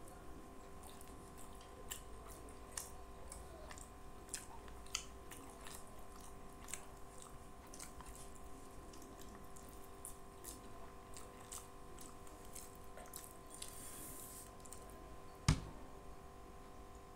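Close-miked chewing and wet mouth sounds of a person eating rice by hand, a scatter of small clicks and smacks over a faint steady hum. One louder knock stands out near the end.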